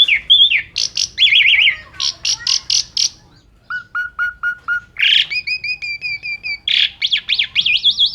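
Asian pied starling (jalak suren) singing a varied, loud song: groups of quick repeated whistled notes, a run of five short dropping notes about halfway, and a fast up-and-down warbling trill near the end.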